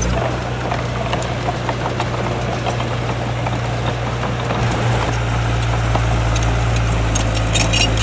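Heavy diesel engine of earthmoving machinery running steadily at an even, low pitch, with a few short metallic clicks near the end.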